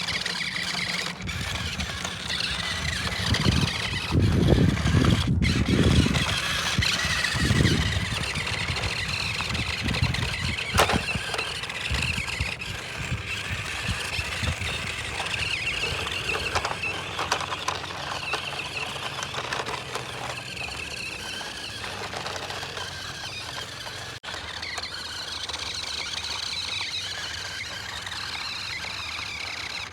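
A toy vehicle's small motor and gears give a steady high-pitched whine. Heavier low rumbles come in between about three and eight seconds in.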